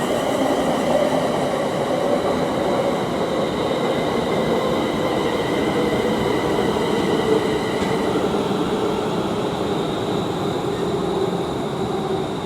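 Class 350 Desiro electric multiple unit running through the platform, its traction equipment giving a steady high whine over rolling noise. A lower tone drops slowly in pitch as the train slows, and one of the high tones fades out about two-thirds of the way through.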